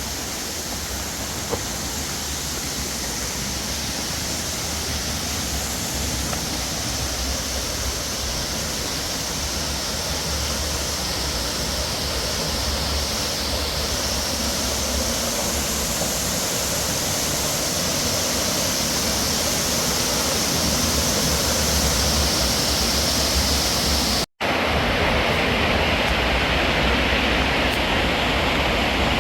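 Steady rush of falling water from a waterfall, growing slowly louder. It cuts out for an instant about 24 seconds in, then carries on the same.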